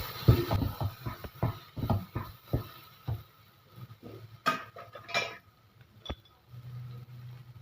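A spoon stirring and knocking against a cooking pan in quick strokes, about three or four a second, as spice powder is worked into the onion-tomato masala. The strokes are followed by a few separate clinks.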